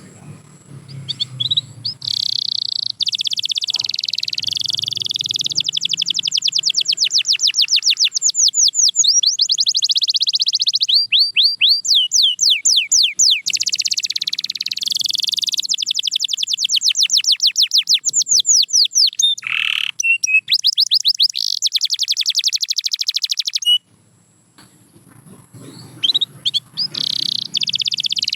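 Canary singing in long, fast trills: runs of rapidly repeated sweeping notes, some slower and more spaced, others packed into rolls. The song breaks off briefly near the end, then starts again.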